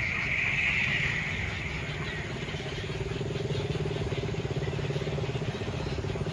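Motor vehicle engine running steadily with a low, rapidly pulsing hum, joined in the first two seconds by a high hissing chorus that fades away.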